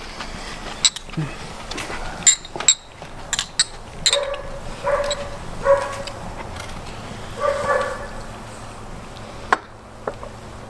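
A dog barking in short bursts, four or five barks in the middle of the stretch, with scattered sharp clicks and knocks around them.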